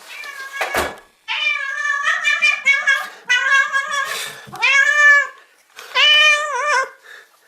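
A domestic cat meowing over and over, a run of loud, drawn-out meows, some rising and falling in pitch, as it greets its owner. There is a short knock just before the meowing begins.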